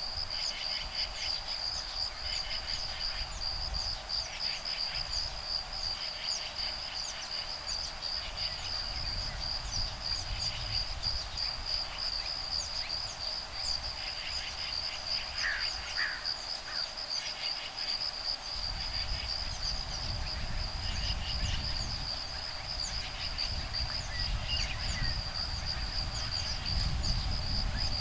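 Insects singing a steady high-pitched trill, with groups of short pulsed calls recurring every second or two and a few brief chirps about halfway through. Wind rumbles on the microphone, heavier from about two-thirds of the way in.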